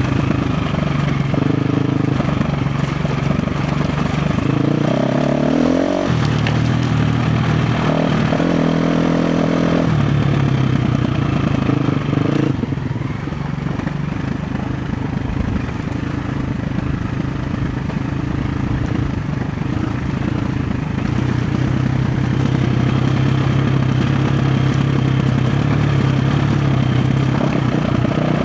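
KTM 350 XC-F single-cylinder four-stroke dirt bike engine running on and off the throttle. It revs up sharply about five seconds in and holds high revs for a few seconds, then drops back and runs at lower, steadier revs.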